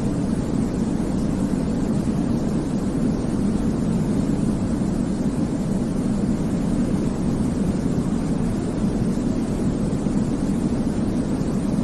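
Steady, deep white noise from a baby-sleep track. It has most of its weight low down, like a soft rumble, with little high hiss.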